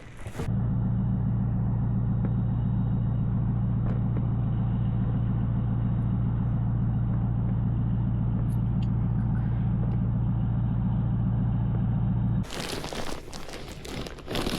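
Motorboat engine running at a steady speed with a constant low hum. It starts about half a second in and cuts off abruptly near the end.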